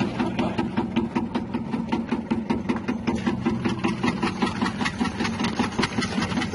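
Electric chip-slicing machine with a 180-watt motor running steadily: a constant motor hum with a rapid, even train of clicks several times a second.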